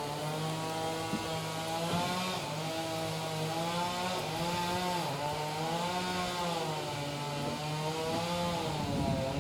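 Moving heritage train, heard as a steady buzzing hum with a whine above it that wavers up and down in pitch.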